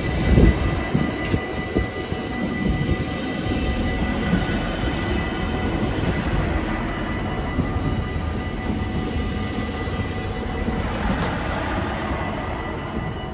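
A Bombardier Talent diesel multiple unit passing over a level crossing, its rumble loudest in the first second and slowly fading. The crossing's bells ring steadily throughout.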